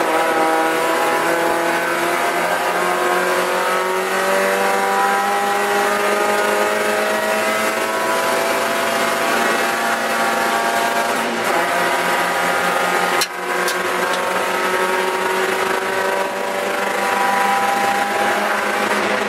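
Spec Miata race car's four-cylinder engine at high revs under hard acceleration, heard from inside the cockpit, its pitch climbing slowly. About thirteen seconds in it cuts out for a moment, then picks up and climbs again.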